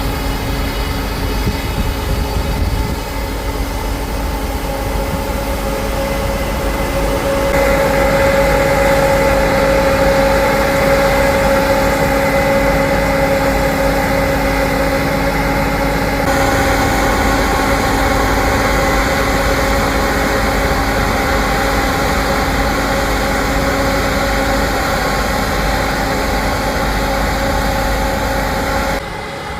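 Heavy harvest machinery running steadily: a diesel engine's low rumble with the hum and whine of the working machinery. The sound changes abruptly about a third of the way in and again around the middle, and drops just before the end.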